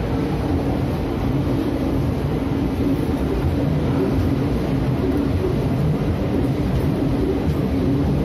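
Express train coaches rolling along a station platform, heard from an open door or window of the moving train: a steady low rumble of wheels on rail mixed with rushing air.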